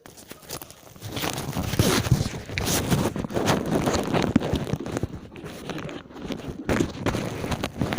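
Irregular rustling and scraping with short knocks close to the microphone, like gear or clothing being handled.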